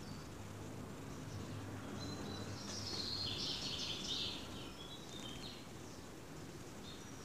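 Birds chirping and twittering, with a dense burst of high calls about halfway through, over a low steady outdoor background hum.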